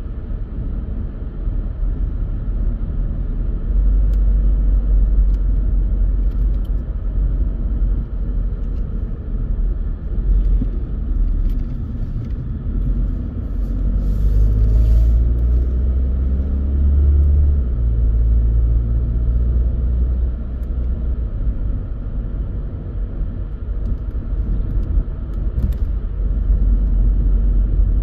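Car driving along a country road: a steady low rumble of engine and tyre noise, with the engine note growing louder for a few seconds about halfway through.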